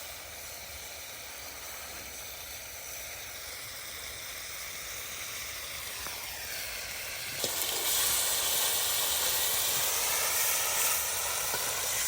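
Chicken in adobo marinade sizzling in a wok over a campfire: a steady hiss that gets louder about seven and a half seconds in.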